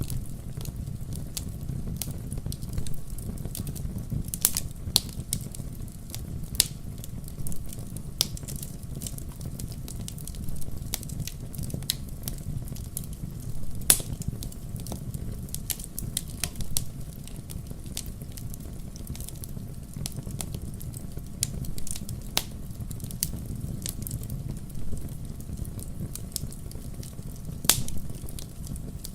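Wood logs burning in a fireplace: a steady low rumble of the flames with frequent sharp crackles and pops, a few of them louder, one standing out about halfway through.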